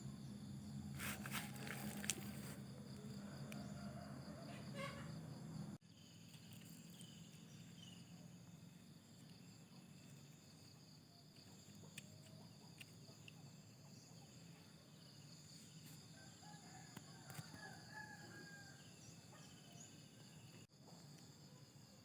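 Faint outdoor ambience of insects trilling steadily, with a few short bird chirps. The sound drops out abruptly about six seconds in and again near the end.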